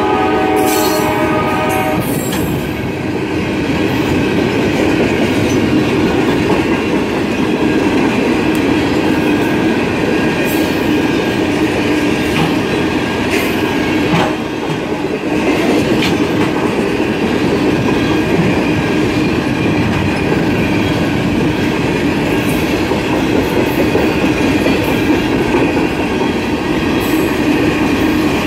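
Freight train of refrigerated boxcars rolling past at speed, a steady rumble of steel wheels on rail with scattered clicks over the rail joints and a faint wheel squeal. A train horn sounds for the first two seconds or so, then stops.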